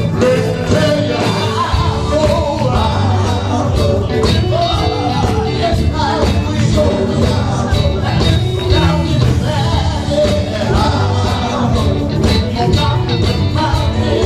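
Band music with singing: gospel-style vocals over bass guitar and drums keeping a steady beat.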